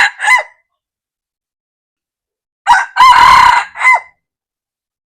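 Red junglefowl cock crowing: the tail of one crow at the start, then one full crow about three seconds in, made of a short first note, a longer middle note and a short clipped final note.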